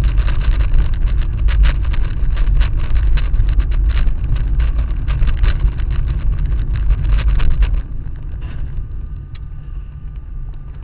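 Vehicle driving, heard from inside: a loud low rumble of engine and road with rapid, irregular clicking and rattling. About eight seconds in it drops to a quieter steady hum with a faint whine.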